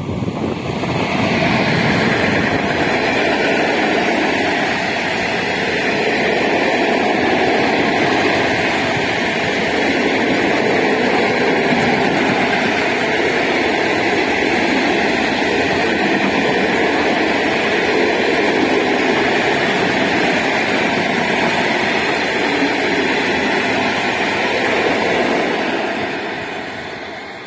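Freight train with an ET26 electric locomotive and a long string of open freight wagons passing at speed: a steady loud noise of wheels running on the rails. It rises about a second in as the locomotive reaches the platform and fades away near the end as the last wagons go by.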